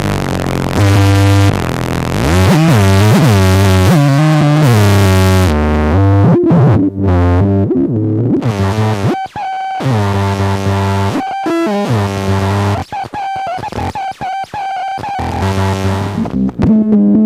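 DIY noise synth's square-wave oscillators droning through a lo-fi delay, the pitch sweeping up and down for the first several seconds. It then breaks into choppy gated notes that cut out suddenly again and again.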